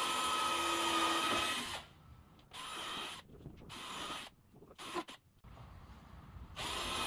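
Power drill driving screws into wood in stop-start runs: one long run at the start, two short ones in the middle, and another starting near the end.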